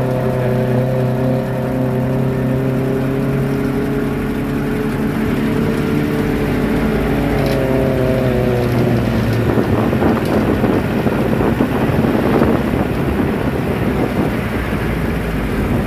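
Jeep engine running as the vehicle drives, a steady hum whose pitch drifts slightly up and then back down. About nine seconds in it turns into a rougher, noisier sound.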